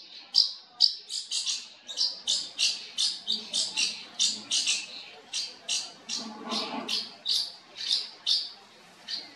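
A bird calling over and over in short, sharp, high chirps, two or three a second.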